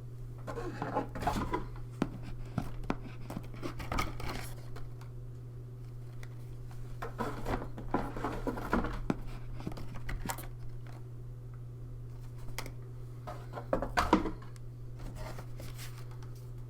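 Cardboard board-game pieces, the game's map tiles and dashboards, being lifted out of their box and handled: irregular rustling and scraping with sharp little clicks and taps in several bouts, over a steady low hum.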